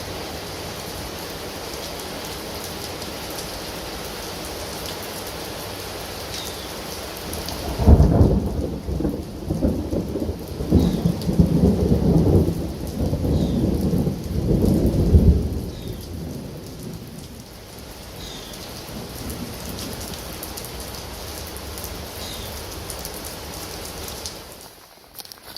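Steady rain, with a long roll of thunder starting about eight seconds in and rumbling for some eight seconds before the rain carries on alone.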